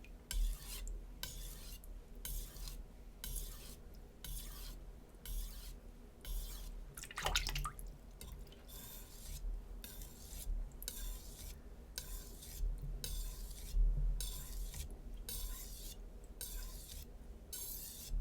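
Steel knife blade being stroked back and forth on a wet whetstone, rasping in a steady rhythm of about two strokes a second. The steel is HAP40 at about 66 HRC, being worked on a Naniwa Super Stone.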